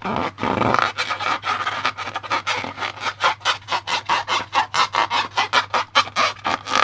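Slime being worked by hand or stirred: rapid, rhythmic rubbing and squishing, about six strokes a second.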